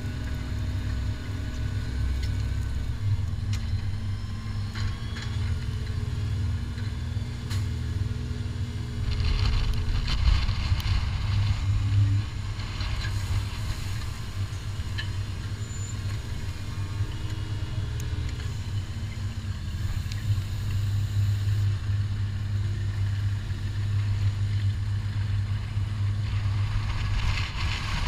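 Fendt 720 tractor's diesel engine running steadily under load while pulling a five-furrow plough, its note stepping slightly lower a couple of times. A rush of noise comes about nine seconds in and again near the end.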